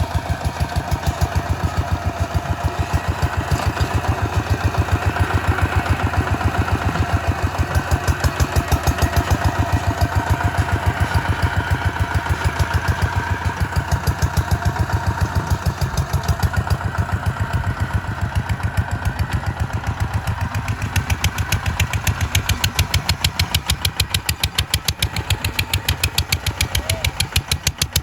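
Kubota RT140 single-cylinder diesel engine running steadily, with a fast, even firing beat.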